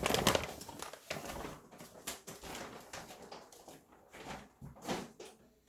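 Plastic packaging rustling and crinkling as it is handled, densest in the first second, then in scattered short bursts.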